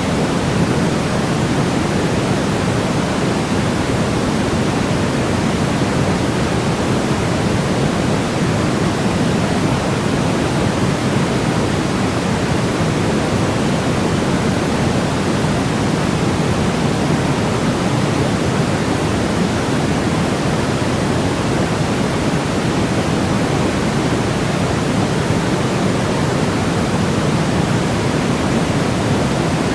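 Steady, unchanging electronic white noise for sleep: an even hiss whose weight sits in the low and middle range, thinning toward the treble.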